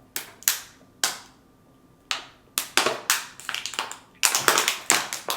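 A run of sharp, close-miked clicks and smacks, sparse at first and bunching into a quick flurry near the end.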